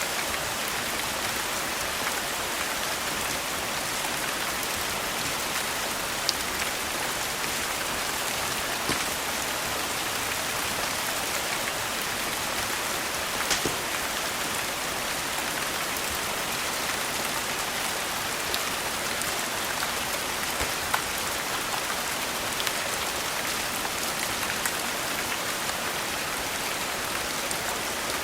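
Steady rain falling, with a scattering of sharp crackles and pops from a wood fire every few seconds.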